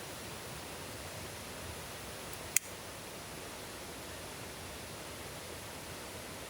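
Steady, even hiss of rain and flowing stream water, with one sharp click about two and a half seconds in.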